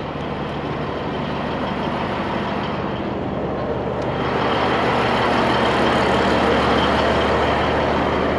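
Diesel truck engine running steadily, growing louder about four seconds in.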